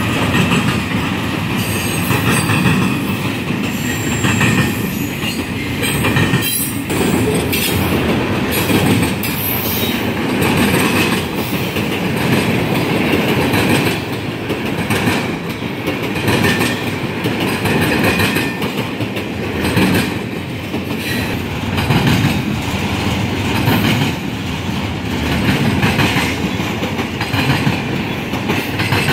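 Long intermodal freight train of double-stack well cars rolling past, its steel wheels clattering over a railroad diamond crossing. The clatter peaks about every two seconds as the wheelsets pass over the crossing.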